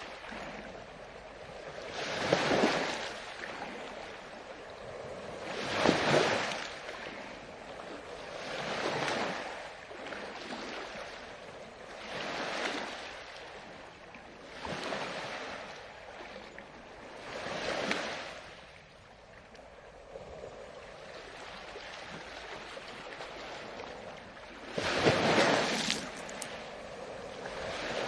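Ocean waves breaking, surf surging and washing back about every three seconds. After a few seconds of calmer wash, the loudest wave breaks near the end.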